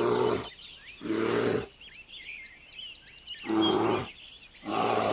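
A man roaring like a beast in four loud bursts, the frustrated cries of an angry creature. Birds chirp faintly between the roars.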